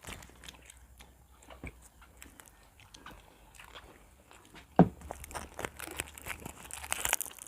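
Close-up eating sounds: people biting and chewing food in small wet clicks and crunches. There is one sharp thump about five seconds in, and the chewing gets busier after it.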